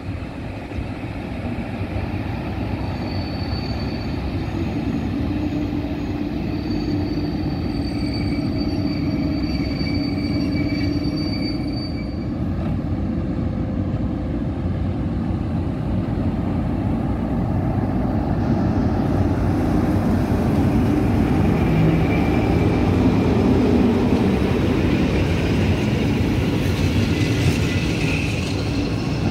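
EP07 electric locomotive and its passenger coaches moving along the platform, a steady rail rumble that grows louder as the coaches roll past.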